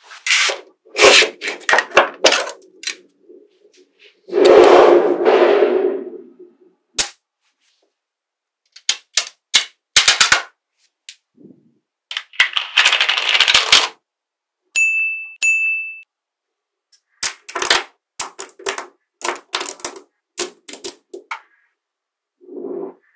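Small magnetic balls clicking and snapping together, single sharp clicks between bursts of dense rattling as clusters of balls are pushed or gathered. A brief high ringing tone sounds about fifteen seconds in.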